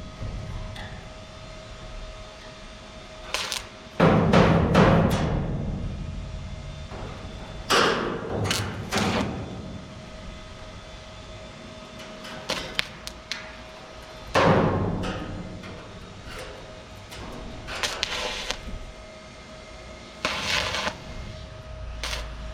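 Irregular heavy thumps, about a dozen spaced a second to several seconds apart, each followed by a ringing decay, over a faint steady hum.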